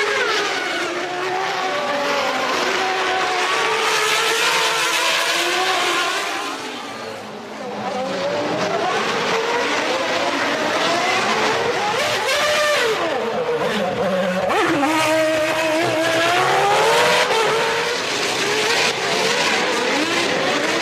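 Several 1993 Formula One racing engines at high revs, their pitch climbing and dropping with throttle and gear changes as a pack of cars passes, with a short lull about seven seconds in.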